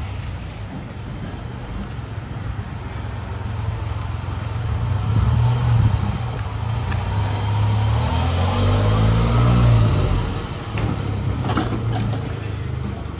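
A motor vehicle's engine rumbling past close by on a street, growing louder over several seconds, loudest about six to ten seconds in, then fading.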